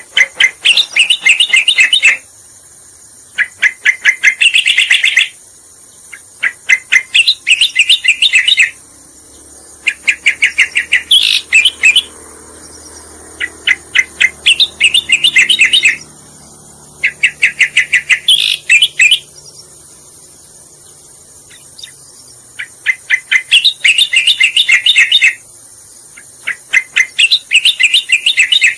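Recorded song of the cica koreng (cucak koreng, striated grassbird) played as a bird-luring track. Its phrases of rapid, fast-repeated high chirping notes, each about two seconds long, repeat every three seconds or so, over a steady high hiss.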